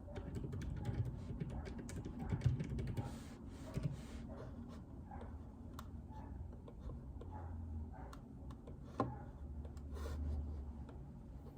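Typing on a JJK84 mechanical keyboard with Outemu Silent Peach linear switches: irregular runs of keystrokes, with a couple of louder knocks.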